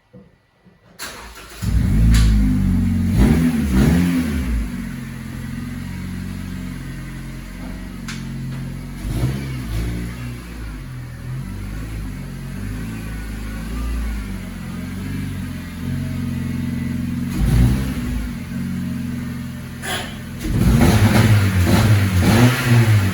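A 2010 Honda Civic's four-cylinder engine starting about a second in, then idling and being revved several times, the pitch rising and falling with each blip, the longest near the end.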